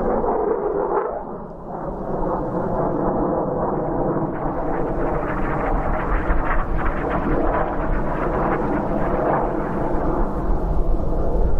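Triumph Bonneville T120's parallel-twin engine running while the bike is ridden, with wind rumble on the microphone. The engine note drops briefly about a second and a half in, then holds steady.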